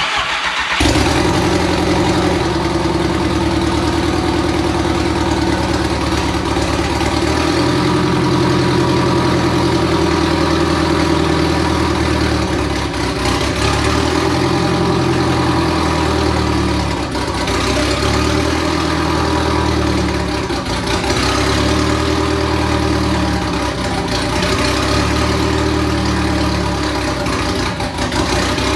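Turbocharged 2.0 8-valve four-cylinder of a VW MK4 Jetta wagon firing on its very first start after the build, then idling loudly, its idle speed shifting up and down a few times.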